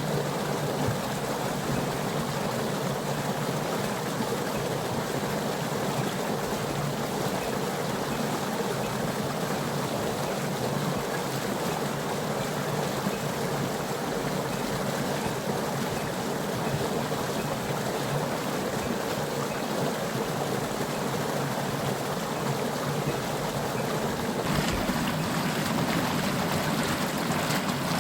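Water running steadily from a natural spring, a continuous rushing and trickling, a little louder in the last few seconds.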